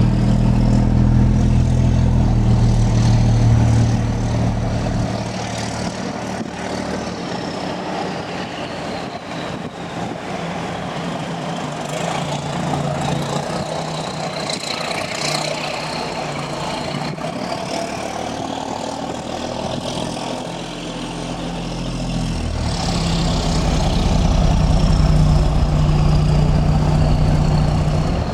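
A heavy engine running, louder for the first few seconds and again over the last several, quieter in between, with a faint higher whine rising and falling over it.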